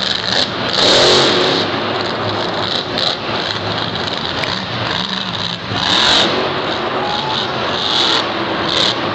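Monster truck engines revving in a stadium arena, with loud surges about one second in and again around six seconds in.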